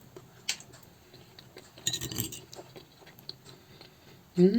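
Fork or spoon clinking and scraping lightly against a plate as salad is taken for tasting: a sharp click about half a second in and a short cluster of clinks around two seconds. Near the end, a short hummed 'mmm' of someone tasting food.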